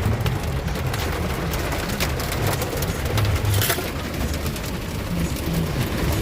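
Hard rain pelting a car, a dense patter of drops over a low rumble from the car on the road.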